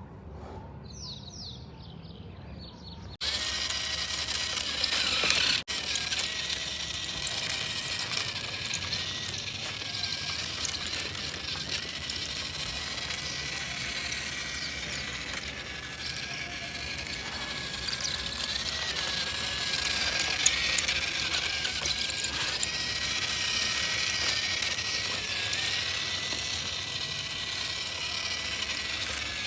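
Small electric motor and plastic gears of a battery-powered toy vehicle running, a steady whine with a gear rattle, starting suddenly about three seconds in.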